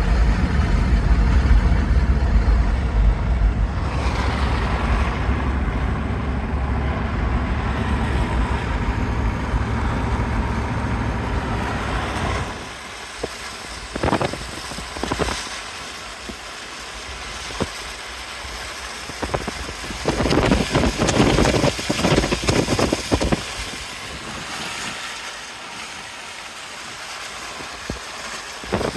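Steady low vehicle rumble for about twelve seconds, then it drops away and wind buffets the microphone in irregular gusts.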